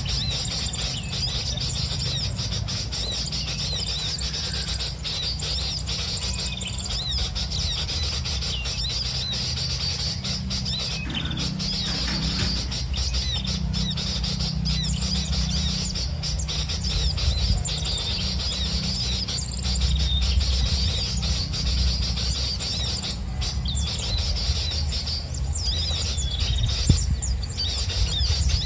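Small birds chirping and twittering in quick, high-pitched notes, over rustling and a low rumble.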